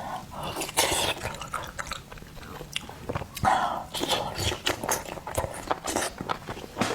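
Close-miked mouth sounds of eating oysters: chewing and biting, a run of wet clicks and smacks with a few louder noisy bursts.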